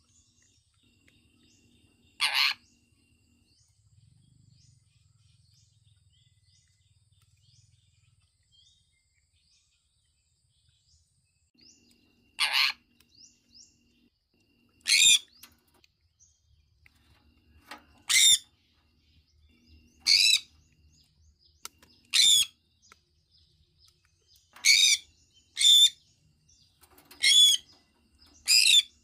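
Sun conure giving short, loud, shrill calls: one a couple of seconds in, then none for about ten seconds, then a run of nine calls coming every one to two seconds, closer together near the end. Faint high chirps are heard in the quiet stretch.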